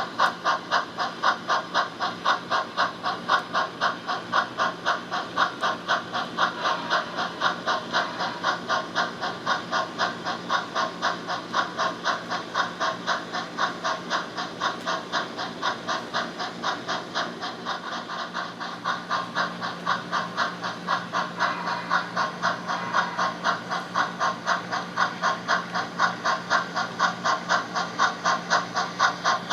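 HO scale model steam locomotive's sound system playing steady exhaust chuffs, about four a second, through a small speaker, with a faint steady hum beneath. The beat eases briefly about two-thirds of the way through, then picks up again.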